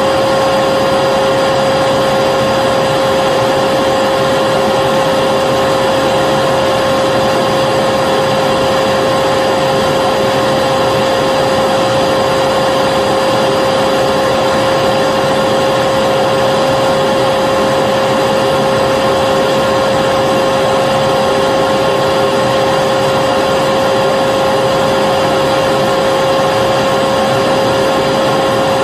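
Vacuum cleaner motor running continuously at a steady pitch, a loud, even rushing noise with a constant whine.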